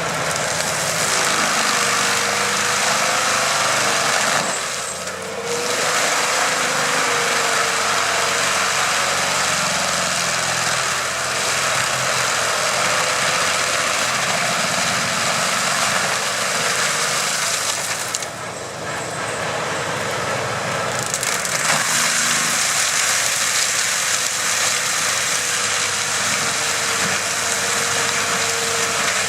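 Heavy stump-removal machine's engine running under load as it works a tree stump, a steady mechanical noise. It drops briefly about five seconds in and again for a few seconds past the middle.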